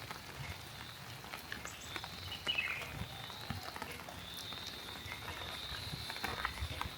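Rain ambience: scattered small drips and taps over a low even hiss, with a steady thin high-pitched drone.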